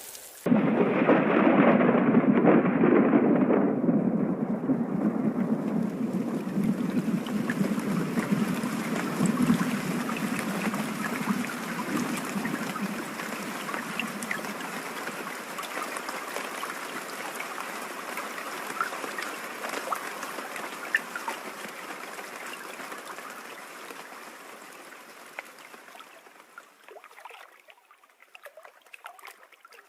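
Steady heavy rain, loudest at first and slowly easing off until it is faint near the end, with scattered drops ticking through it.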